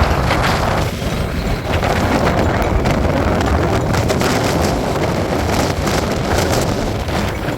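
Strong gale-force wind blasting across the microphone: a loud, continuous rumble heavy in the low end, shot through with rapid gusty flurries.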